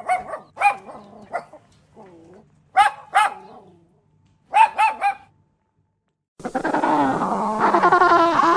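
Dog barking in short, high-pitched barks, two or three at a time with gaps between. About six seconds in, it gives way to a loud, dense chorus of many animals calling over one another.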